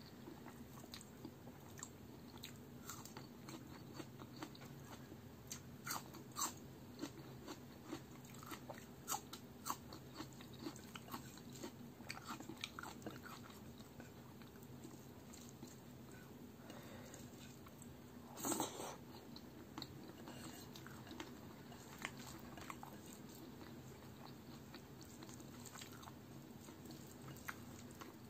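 Close-miked chewing and wet mouth sounds of a person eating rice with palak chicken by hand, with fingers squishing rice and gravy on the plate. Many soft short clicks and smacks scattered through, and one louder burst about two-thirds of the way in.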